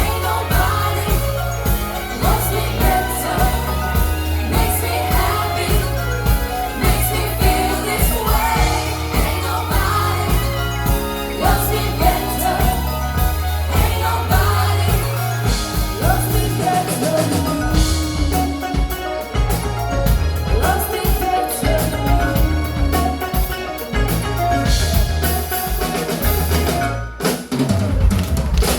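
Live band playing a song: a singer over a drum kit and a stepping bass line, with a brief stop in the music near the end.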